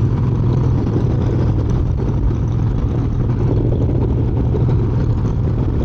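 1993 Harley-Davidson Heritage Softail's air-cooled Evolution V-twin running steadily while the motorcycle is ridden, a constant low drone mixed with wind rush on the rider's microphone.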